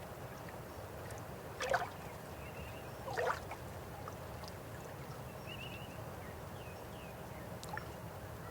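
River water flowing steadily, with two brief louder gurgles or splashes about two and three seconds in.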